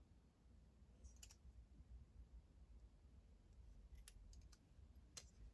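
Near silence with a few faint, sharp clicks scattered through it.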